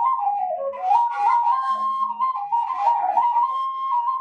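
Washint, the Ethiopian end-blown bamboo flute, playing a quick ornamented melody of short notes that step up and down, with a breathy edge to the tone.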